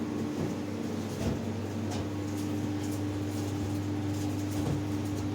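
Steady mechanical hum with a constant low tone, broken by a few faint clicks.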